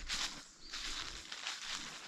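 Footsteps crunching on the forest floor, about three steps in an even walking rhythm.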